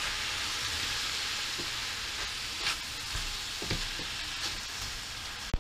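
Beef strips, green beans and oyster mushrooms sizzling and hissing in a frying pan as they are stirred with a spatula, the sizzle softened by the liquid the mushrooms and vegetables have released. A few faint scraping strokes of the spatula, and a sharp click near the end.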